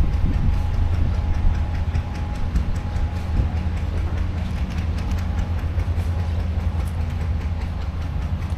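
An engine running steadily with a low rumble and a light, rapid clatter.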